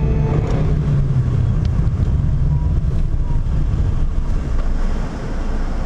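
Car interior driving noise: a steady low rumble from the engine and the tyres on the road, heard sped up at double playback speed.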